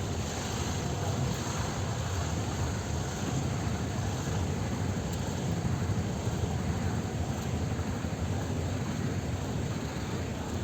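Steady street traffic noise: a continuous low rumble of passing vehicle engines and tyres, with no single horn or event standing out.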